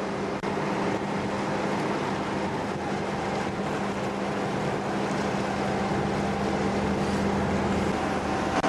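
Steady engine drone with a constant low hum under a broad rushing noise, holding even throughout.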